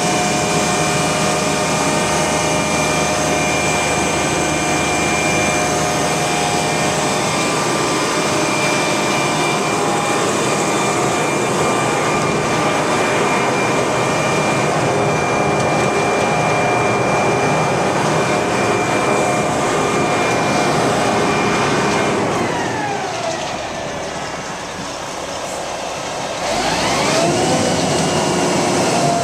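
Mixer truck's Cat C-10 diesel engine running at raised speed with a steady whine. About three quarters of the way through the pitch falls away as the revs drop, then climbs sharply again about a second before the end.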